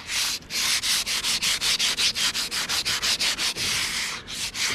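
Abrasive rubbing against the metal of an old radial drill press as hardened undercoat is stripped off for paint prep, in quick even back-and-forth strokes at about five a second.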